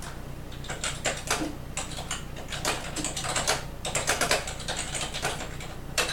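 Typing on a computer keyboard: irregular runs of quick key clicks with short pauses, over a steady low hum.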